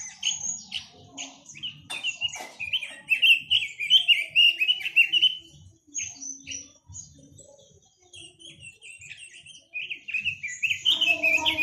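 A quế lâm songbird singing a fast, varied chirping song. It is loudest from about two to five seconds in and again near the end, with a quieter stretch between.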